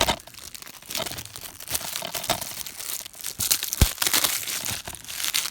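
Plastic shrink-wrap crinkling and tearing as it is pulled off a DVD case, with a single knock about two-thirds of the way through.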